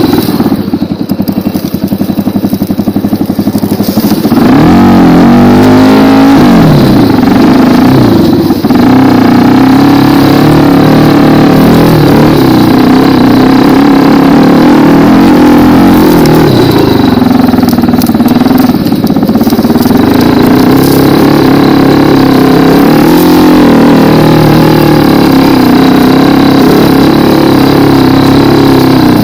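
Racer K2 250 dirt bike's 172FMM single-cylinder four-stroke engine running loud while being ridden, the revs rising and falling repeatedly. It is softer for the first few seconds, then opens up.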